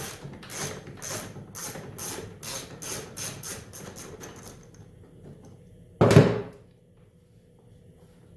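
Ratchet wrench clicking in repeated strokes on an 11 mm bolt, the strokes coming quicker and fainter as the bolt loosens, then dying away. A single loud clunk about six seconds in.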